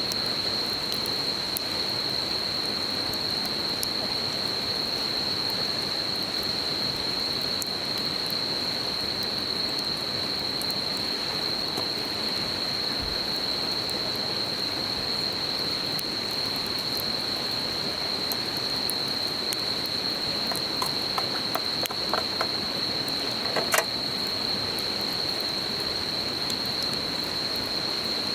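Insects, likely crickets, calling in one unbroken high note over the even rush of a small river, with a campfire crackling; the crackles come thicker near the end and include one sharp pop.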